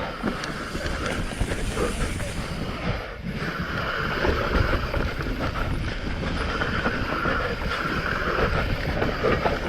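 Mountain bike riding fast down a rough trail: a steady rush of wind on the microphone over constant rattle and crunch from the tyres and bike on stony ground.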